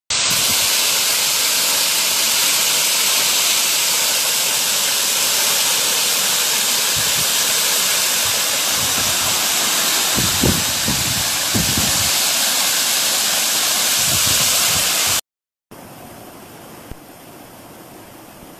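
Waterfall: falling water rushing in a loud, steady hiss, with a few low bumps near the middle. About 15 seconds in it cuts out briefly and returns as a much quieter, steady rush of water.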